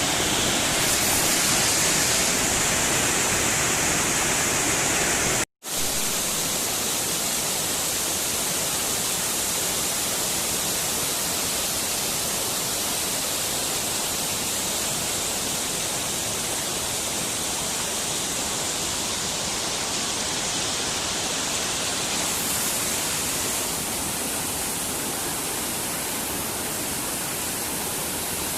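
Water rushing steadily down the cascades of a small stream's waterfalls, a constant hiss of falling water. The sound cuts out for a split second about five and a half seconds in.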